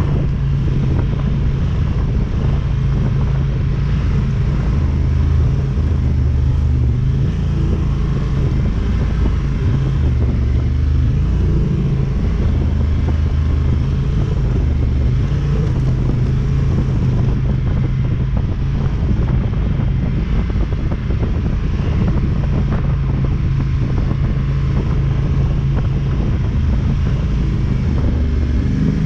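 ATV engine running while being ridden, a steady low engine note that shifts up and down with the throttle.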